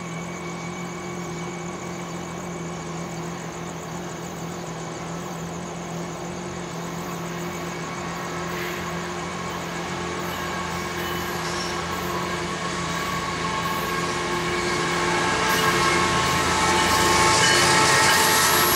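Approaching freight train led by GE ES44C4 diesel locomotives, growing steadily louder and loudest over the last few seconds, with the grade-crossing bell ringing steadily throughout.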